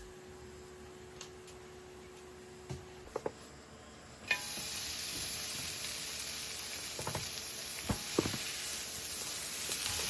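Thin slices of beef brisket (chadolbaegi) start sizzling suddenly on a hot pan about four seconds in and keep frying steadily, with a few light clicks over the sizzle.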